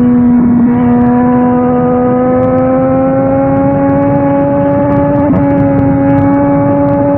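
Yamaha Tracer 900 GT's inline three-cylinder engine heard through a WR Authentic aftermarket exhaust, pulling steadily in one gear, its pitch rising slowly as the bike gains speed.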